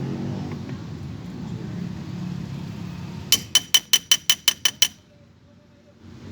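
A hammer strikes metal in a quick run of about nine ringing taps, starting about three seconds in, over a low rumble.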